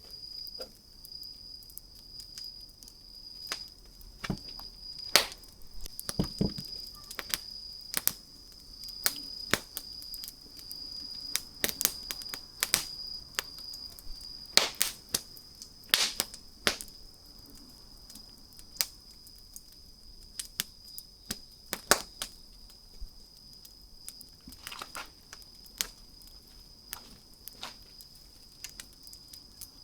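Wood fire crackling, with irregular sharp pops and snaps, some much louder than others, clustered more densely in the first half. A faint steady high-pitched tone runs underneath.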